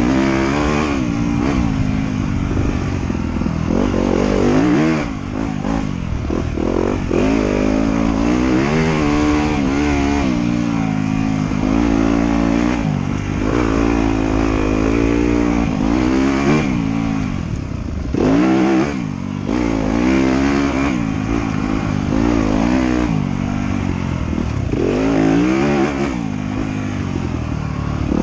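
Off-road motorcycle engine revving up and down as it is ridden along a dirt trail, its pitch climbing and dropping every second or two with throttle and gear changes, over a steady low rumble.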